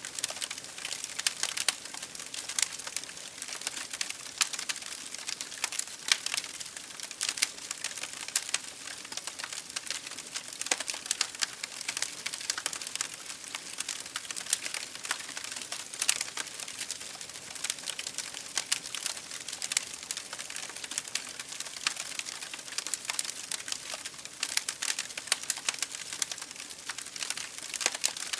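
Wood fire burning in an open fireplace: a steady hiss of flames under dense, irregular crackling and popping.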